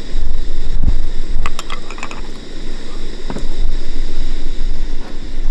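Strong wind rumbling and buffeting against the microphone, with a few light clicks about a second and a half in.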